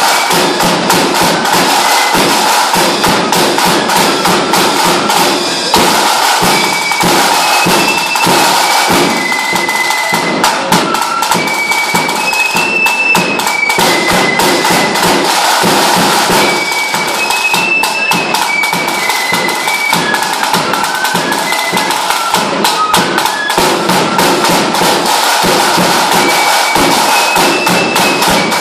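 Lambeg drums beaten in a rapid, continuous roll with canes, with a fife playing a high tune over the drumming.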